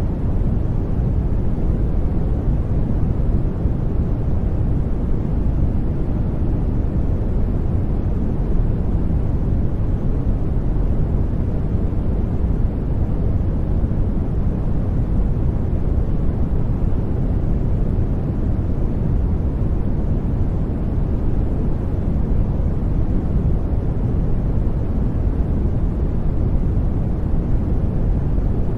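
Steady, unchanging generated noise for sleep or focus, deep-toned with most of its weight low and little high hiss.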